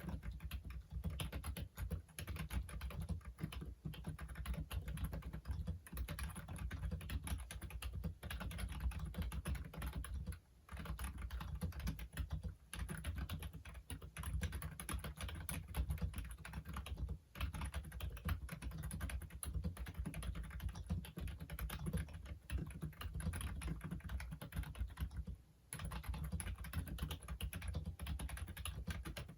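Typing on a Logitech Wave Keys membrane keyboard: a continuous run of key presses, broken by three short pauses, about a third of the way in, a little past halfway and near the end.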